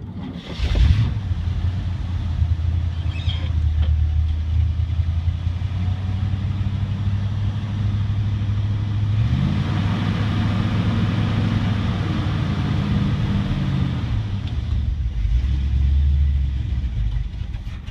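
1969 GMC dump truck's engine running steadily in a 14-degree cold start. It picks up speed in the middle, settles back, and dies away just before the end: a cold engine not yet warmed up.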